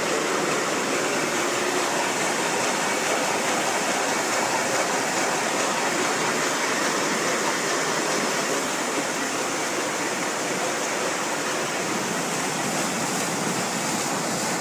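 Steady rush of water driving a water mill, an even noise that holds level throughout.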